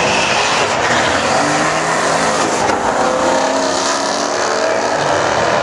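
Twin-turbo Mustang and nitrous-fed Corvette Z06 running hard at full throttle, loud and steady, with engine notes gliding in pitch.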